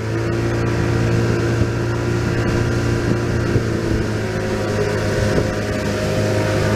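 An engine running steadily at a constant speed, a loud even hum with no revving.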